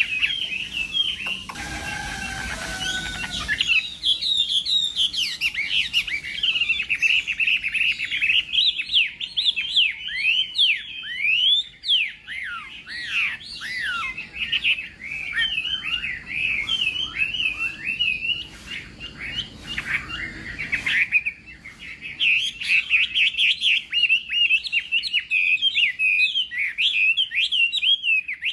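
Chinese hwamei singing a fast, continuous stream of varied warbling and whistled phrases. A brief, lower, steadier sound interrupts the song about two seconds in.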